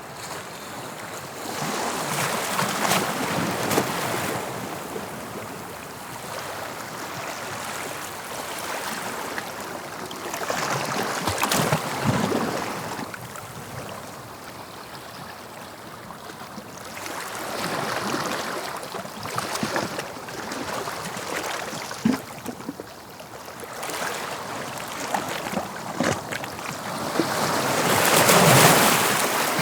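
Sea waves breaking on the shore, swelling and falling in about four surges, the loudest near the end.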